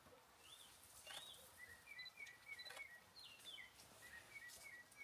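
Faint birdsong: a run of short, quick whistled notes, some sliding up and down in pitch, with a couple of faint clicks.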